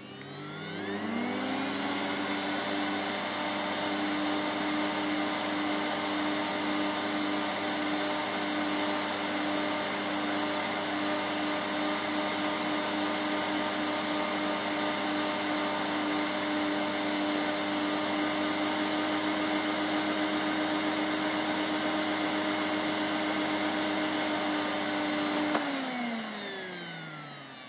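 Vacuum cleaner motor spinning up to full speed with rising pitch, running steadily for most of the time, then switched off near the end and winding down with falling pitch.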